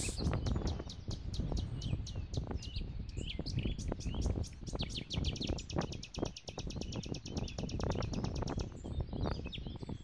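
Rapid, high-pitched chirping repeated many times a second, typical of a small bird, over a low, gusting rumble of wind on the microphone.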